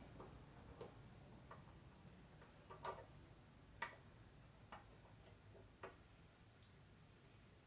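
Faint, irregular light clicks and taps, about six over several seconds, from small setup pieces and the workpiece being handled, over quiet shop room tone.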